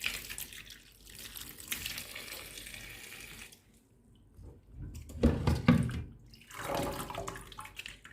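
Cold tap water running over just-blanched eggplants in the sink, to stop them cooking and keep them crisp; the flow stops about three and a half seconds in. A few louder knocks and handling sounds follow.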